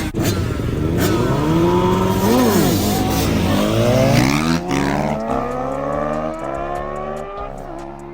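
Dirt bike engine revving, its pitch swooping up and down twice, then climbing steadily as the bike accelerates and the sound slowly fades.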